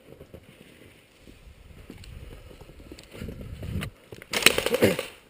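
Low rumbling noise, then near the end a loud, rapid full-auto burst from an airsoft gun, a quick run of clicks lasting under a second.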